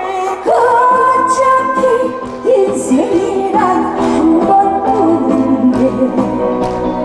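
Female trot singer singing live over backing music: a long held note with vibrato about half a second in, then bending, ornamented phrases.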